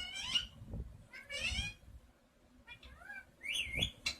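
Parrot calling: three bouts of short, high, warbling calls whose pitch slides up and down, the last and longest near the end, over a few low thumps.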